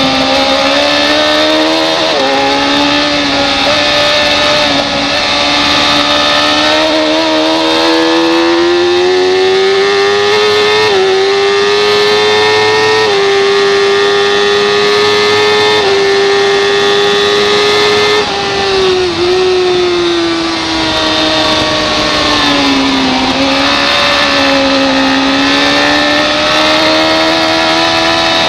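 Racing superbike engine at high revs, heard from on the bike at speed. The pitch climbs with brief steps at the gear changes, drops sharply about two-thirds of the way in as the rider backs off for a corner, then rises again under acceleration.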